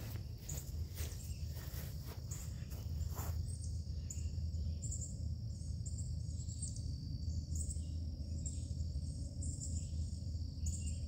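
LS-swapped V8 in a 1985 Chevrolet C10 idling steadily after a cold start, with a steady high insect chirr over it.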